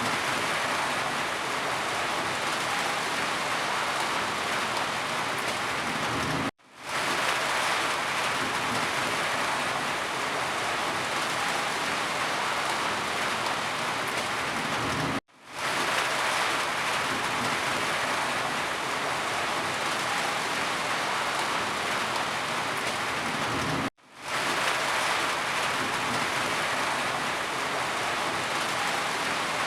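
Heavy rain falling steadily, a dense even hiss of drops. It cuts out abruptly three times, about every nine seconds, and fades straight back in each time, as a looped recording does.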